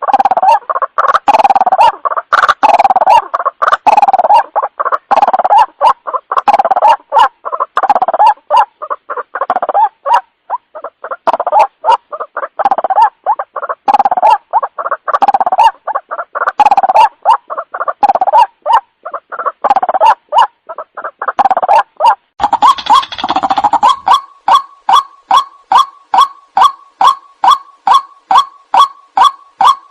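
White-breasted waterhen calling: a fast, unbroken run of harsh croaking notes, changing about three-quarters of the way through into a steady series of short clipped notes, about three a second.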